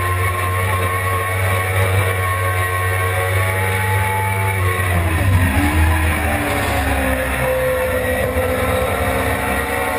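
Suzuki GSX-R600's inline-four engine running at high revs on track, with steady wind rush on the onboard microphone. About halfway through the revs fall sharply, then climb steadily again.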